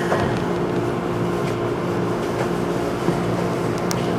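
Steady hum and running noise inside a JR 211 series electric train car, with a few faint ticks near the end.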